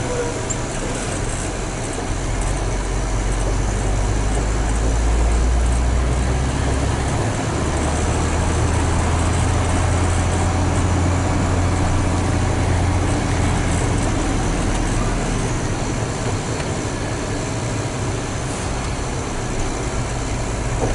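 Hino 500 FM320TI truck's diesel engine and road noise heard inside the cab while driving, a steady low drone that steps up in pitch about seven seconds in.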